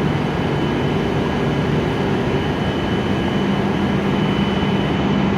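Steady hum and hiss of an E7-series Shinkansen train standing at a station platform, with a thin high tone throughout; a low hum grows stronger about three and a half seconds in.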